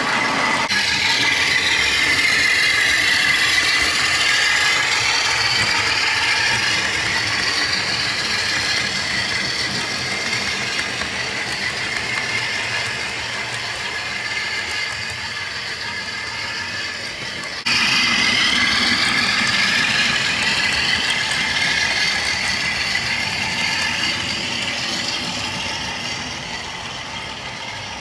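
A Bachmann Class 47 model diesel locomotive running on the track: a mechanical whir of its motor and gears, with the pitch gliding slowly as the speed changes. It fades gradually, then suddenly jumps louder about two-thirds of the way in.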